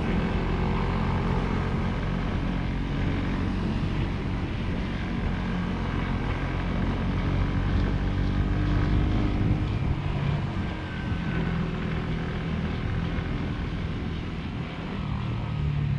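Motorcycle engine running under way, its pitch shifting a little up and down with the throttle, over a steady low rumble.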